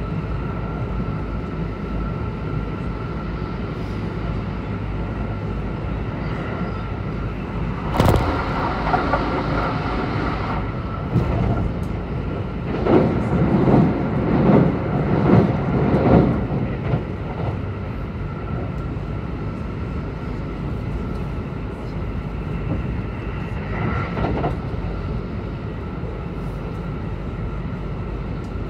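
Kintetsu 22000 series train running at speed, heard from inside the car: a steady rumble of wheels on rail with a faint steady whine. A sudden sharp bang comes about a third of the way in, followed by a stretch of louder, rhythmic clattering as the train crosses a bridge over a river.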